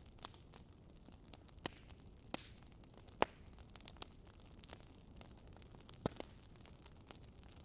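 Burning wood crackling: scattered sharp pops at irregular intervals over a soft hiss. The loudest pops come about three seconds in and about six seconds in.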